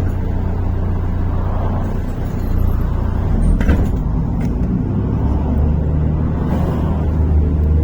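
Inside a MAZ-103 city bus: steady diesel engine and cabin rumble, with a sharp click about three and a half seconds in. The engine settles into a steadier low tone about five seconds in.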